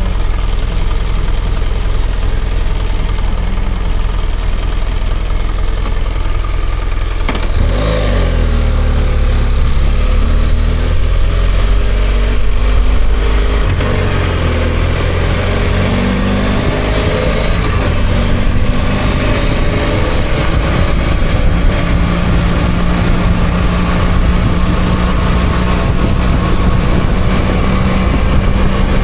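BMW F800GS parallel-twin motorcycle engine running, under a steady rushing noise. About seven seconds in, the engine note changes abruptly, then rises and falls in pitch.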